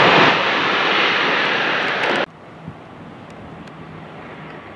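Aircraft passing close by, a loud rushing engine noise without a clear pitch that cuts off abruptly a little over two seconds in, leaving a quiet background with a faint low hum.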